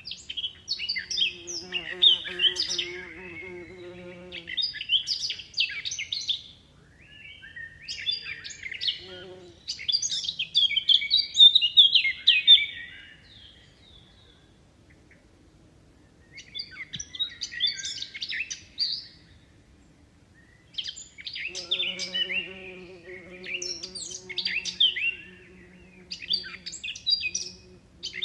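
Small songbirds chirping and twittering in busy bursts of a few seconds, with short pauses between. Twice, a fainter steady low hum runs underneath for a few seconds.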